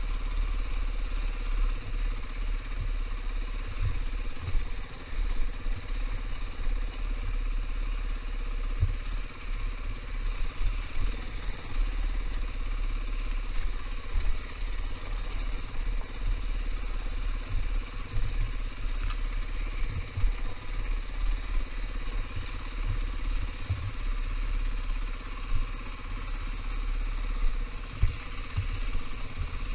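KTM 500 EXC dirt bike's single-cylinder four-stroke engine running steadily while riding, with irregular low thumps throughout.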